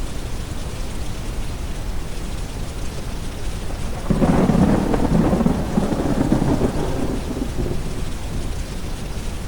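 Rolling thunder rumbling over steady rain and a deep brown-noise bed; the thunder swells suddenly about four seconds in and fades over the next few seconds.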